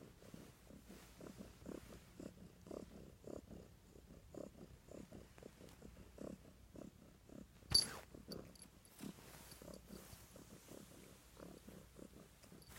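Domestic cat purring in quick, regular pulses, with one sharp click about eight seconds in.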